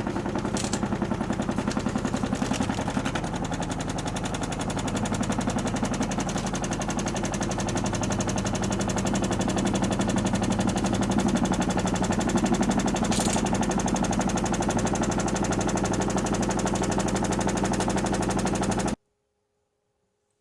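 Panasonic NA-147VB2 front-loading washing machine drum spinning at high speed: a loud, steady hum with a rapid, even rattle. It cuts off suddenly near the end.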